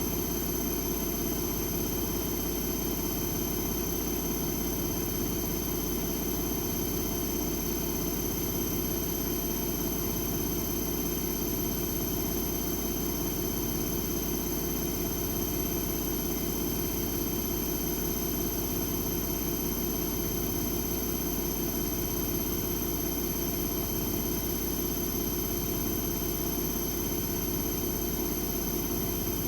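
AEG Lavamat W 1450 Electronic washing machine with its drum spinning at a steady speed: an even motor-and-drum hum that does not change pitch or level, with a faint high whine on top.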